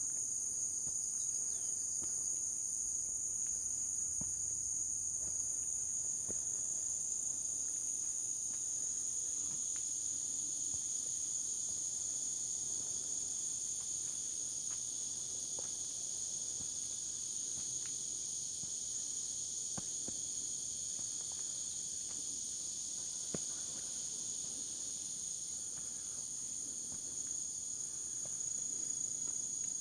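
Steady, high-pitched chorus of insects singing without a break, with faint scattered ticks of footsteps on the trail beneath it.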